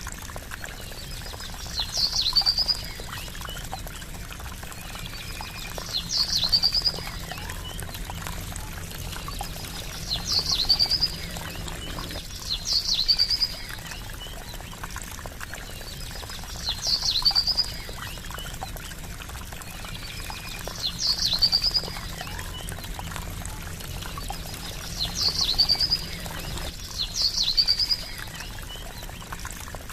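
Trickling water running steadily, with a bird repeating a short, high call every two to four seconds: a sharp upward sweep followed by a quick run of notes.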